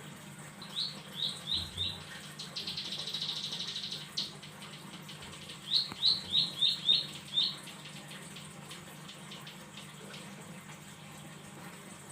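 Ciblek (prinia) singing: a run of four short rising chirps, then a fast buzzy trill lasting about a second and a half, then another run of about six rising chirps. A fainter rapid ticking trill carries on under a steady low hum.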